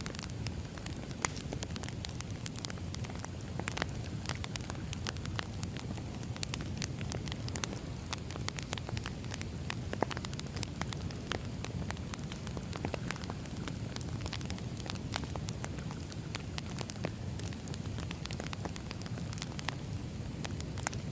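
Wood fire burning: a steady low rush with frequent, irregular small crackles and pops from the logs, a few of them sharper.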